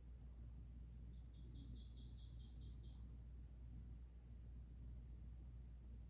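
A songbird singing faintly from a TV bird-feeder video: a fast run of about ten high repeated notes lasting about two seconds, then a few higher, thinner chirps.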